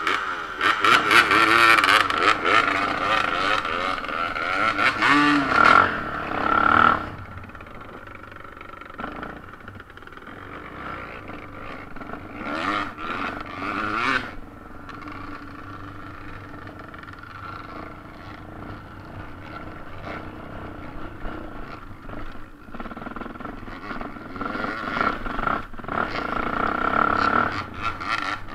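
Off-road motorcycle engines, including the camera rider's Yamaha TT600R single-cylinder four-stroke: loud revving with rising and falling pitch for the first seven seconds or so as the bikes pull away. The engine sound then drops to a lower, steadier level while riding the gravel trail, swelling again about halfway through and near the end.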